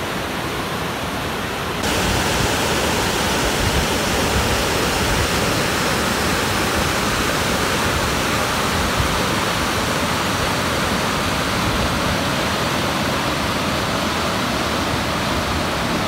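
Waterfall rushing: a steady wash of falling water that gets louder about two seconds in.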